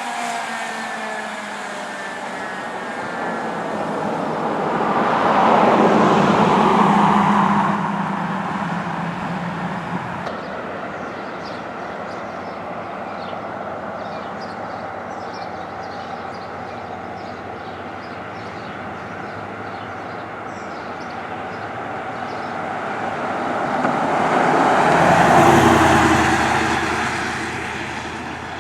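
Road vehicles passing by, two pass-bys that each build up and fade away, the first about six seconds in and the second near the end, with steady traffic noise between.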